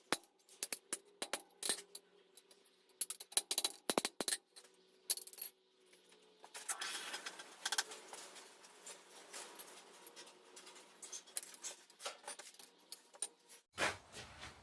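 Steel blacksmith's tongs clinking and tapping as they are handled and adjusted, with short metallic rings. A quick run of sharp clicks fills the first half; after about six and a half seconds a softer rustling hiss runs under scattered clicks.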